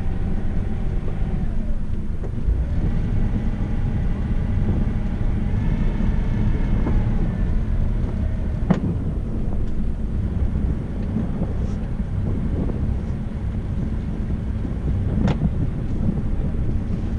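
Boat's engine running steadily as it motors, a low rumble, with two sharp clicks, one about halfway through and one near the end.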